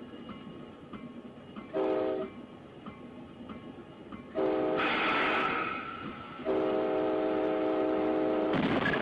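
Locomotive air horn sounding a short blast about two seconds in, a longer blast with a hissing noise over it about four and a half seconds in, then a long blast held from about six and a half seconds on.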